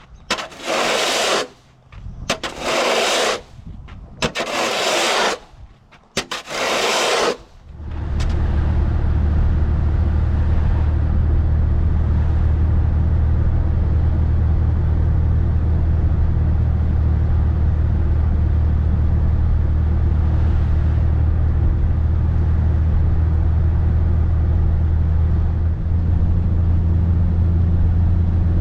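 Four loud scraping strokes, each about a second long, then from about eight seconds in a vehicle engine running with a steady low hum.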